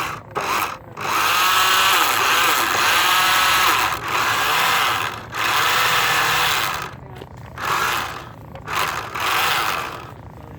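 Radio-controlled car's motor whining in repeated bursts of throttle: a long run of about three seconds, then several shorter ones with brief gaps, its pitch rising and falling.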